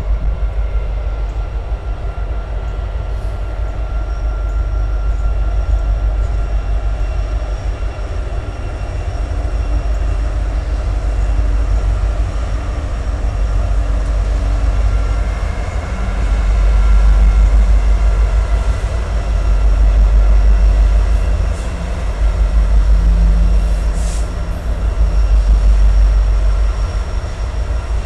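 Norfolk Southern diesel locomotives hauling a loaded coal train across a steel girder overpass, a continuous deep rumble that grows louder and pulses from a little past halfway as the coal hoppers roll onto the bridge.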